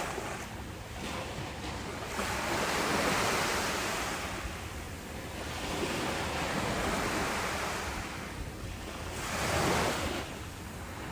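Ocean waves breaking and washing on the shore in slow, rolling surges, each swelling and fading over a few seconds. The strongest surge comes near the end.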